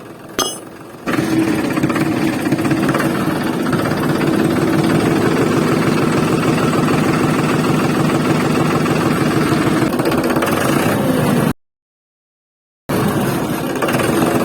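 A small motor or engine running steadily, starting up about a second in, with a click just before. The sound cuts off abruptly twice near the end.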